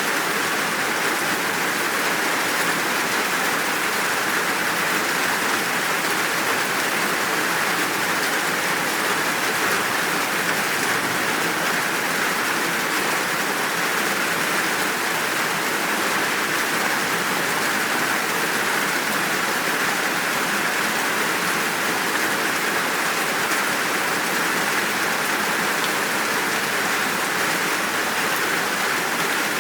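Steady downpour of rain, an even unbroken hiss with no thunder.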